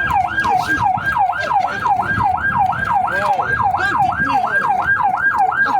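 Emergency vehicle siren on a fast yelp, its pitch sweeping up and down about three times a second without a break.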